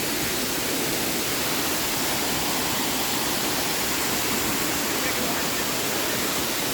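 Steady, even rush of falling water from the creek and waterfall at Margaret Falls.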